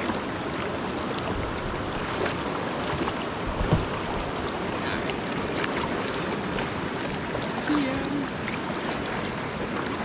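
Steady rush of a waterfall close by, with a few hollow knocks of a paddle against the kayak, the loudest about four seconds in.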